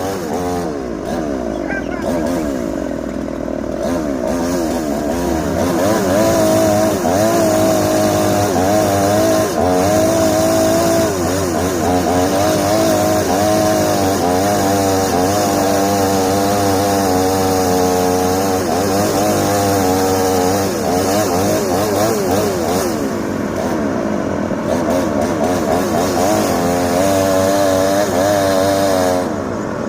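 Small two-stroke engine, most likely a chainsaw, running continuously and revving up and down over and over, its pitch rising and falling every second or so.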